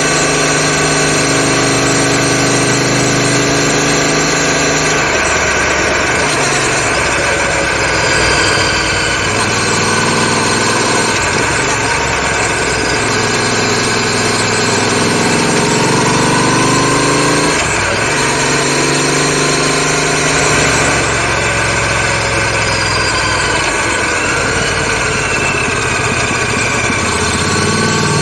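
Royal Enfield Continental GT 650's parallel-twin engine running under way through stainless steel aftermarket exhaust cans, heard close up. Its pitch rises and falls several times as the rider opens and closes the throttle, with a sudden break about 17 seconds in.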